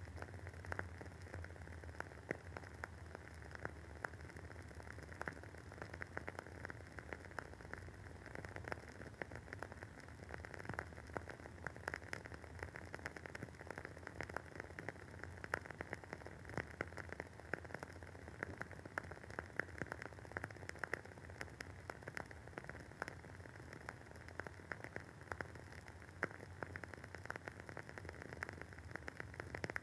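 Wooden wick of a WoodWick candle burning, with a soft, continuous crackle of many small irregular pops over a faint steady hiss.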